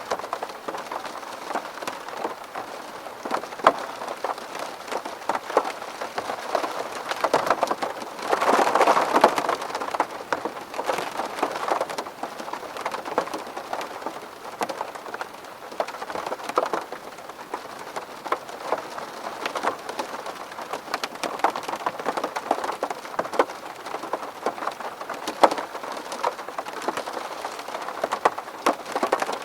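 Rain falling on a window pane: a steady patter of many drops ticking on the glass. About eight seconds in the rain briefly swells heavier for a couple of seconds.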